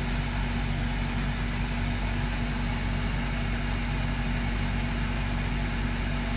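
A steady low mechanical hum with an even drone, running unchanged throughout, engine-like in kind.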